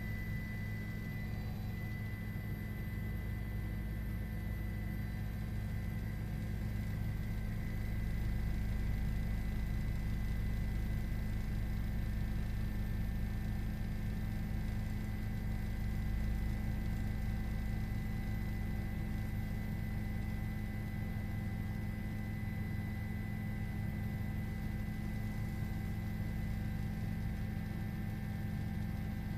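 Steady electrical hum, low and unchanging, with a few faint high steady tones above it.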